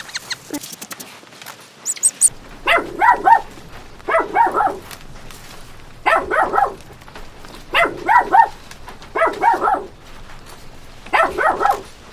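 A dog barking in six short bursts of about three quick barks each, a burst every second and a half or so, starting a couple of seconds in.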